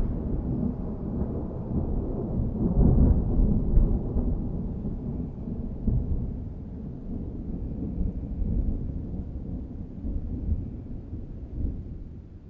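Thunder rolling and rumbling low after a clap, slowly dying away with a few small swells.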